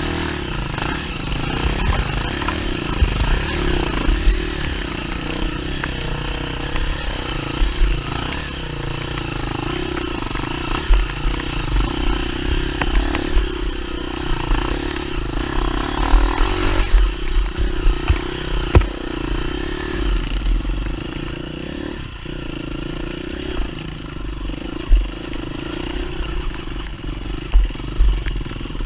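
Enduro dirt bike engine running at fairly steady revs, with knocks and clatter from the bike as it rides over rough ground.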